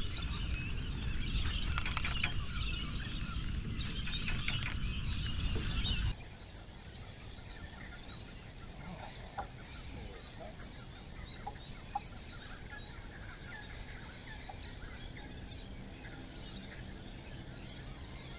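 Birds calling over a low outdoor haze, busier and louder for the first six seconds, then dropping off abruptly to a quieter background with a few short, faint calls.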